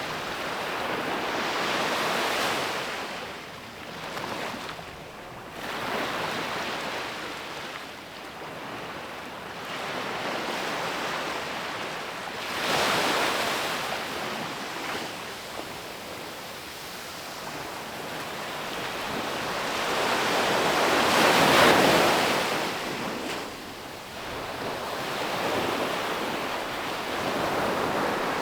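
Ocean waves breaking and washing up a beach in repeated surges, the loudest about two-thirds of the way through, with some wind on the microphone.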